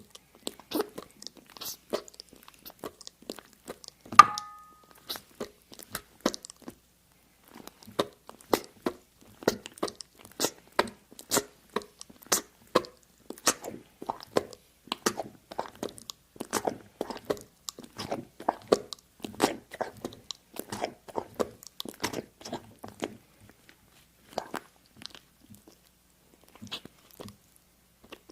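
Rapid, irregular close-miked crunching clicks, thickest through the middle, with a single short ringing ping about four seconds in.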